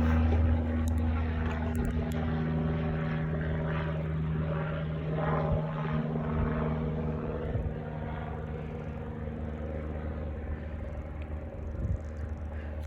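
Airplane engine droning as the aircraft passes and moves away: a steady low hum with a pitched tone that slowly fades.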